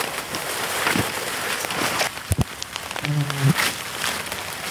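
Heavy rain falling steadily, with separate drops striking close by. A single knock comes about halfway through, and a brief low hum follows about three seconds in.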